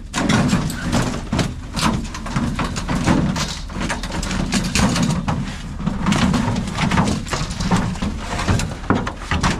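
Irregular knocks, clatters and rustling as items are handled and shifted in a packed storage unit, over a gusting low rumble of wind on the microphone.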